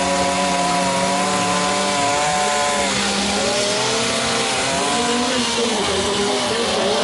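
Chainsaws carving wood, their engine note dipping under load and rising again, with a deep dip about three seconds in; more than one saw is running at once.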